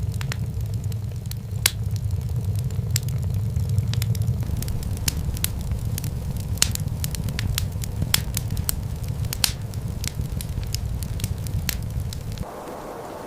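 Wood fire crackling: irregular sharp pops over a steady low rumble. Near the end it cuts off suddenly, leaving a quieter steady hiss.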